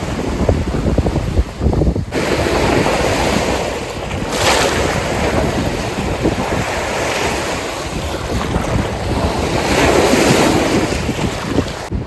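Lake waves washing onto the shore, swelling in twice, with wind buffeting the microphone.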